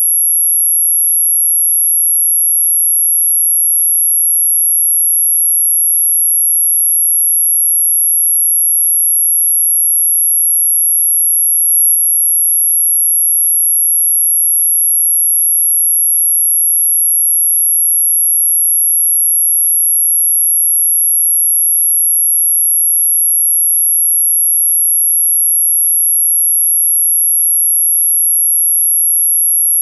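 Electronic mosquito-repellent tone: one very high, steady pure tone held at a constant pitch and level throughout, with a tiny faint click about halfway through.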